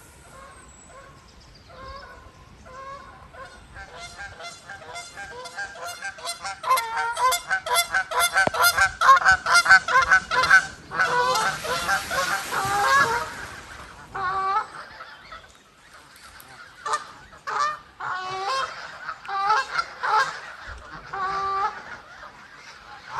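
A flock of geese honking: scattered calls at first, building to a dense chorus of many overlapping honks in the middle, then thinning to occasional honks.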